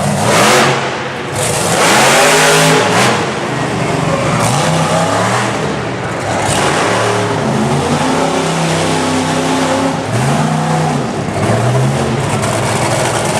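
Monster truck engine revving up and falling back again and again, its pitch climbing and dropping several times, with the loudest full-throttle surge about two seconds in.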